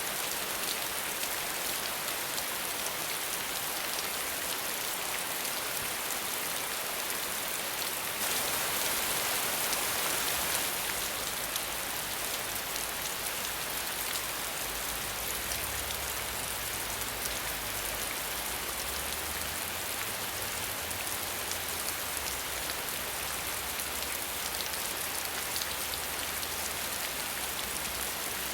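Steady rain falling, an even hiss that grows heavier for a couple of seconds about a third of the way in.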